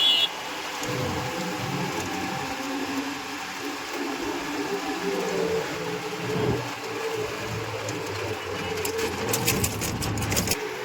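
Tractor engine running steadily while the tractor is driven on the road, with a short burst of rattling clicks near the end.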